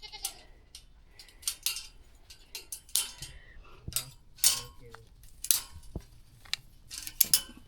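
Light metal clinks and rattles: a dozen or so short, irregular strikes of small metal hardware knocking together.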